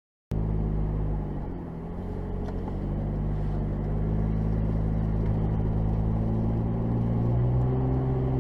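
Car engine running steadily, cutting in abruptly just after the start, its pitch dipping briefly and then rising a little near the end as it picks up revs.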